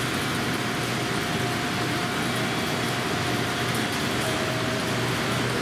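Steady hum of trains standing at the platform, with a steady whine that drops slightly in pitch about four seconds in.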